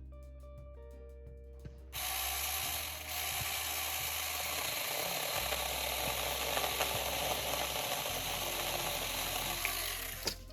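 A battery-powered 6-inch mini chainsaw starts abruptly about two seconds in and runs steadily while cutting wood, with a brief dip soon after starting. It stops suddenly near the end. Light guitar music plays under it.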